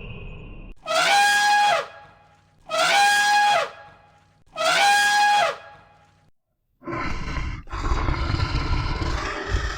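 Animal calls from a sound-effects compilation: three identical high-pitched calls about a second apart, each rising and then held, followed after a short pause by a rough, low growling sound.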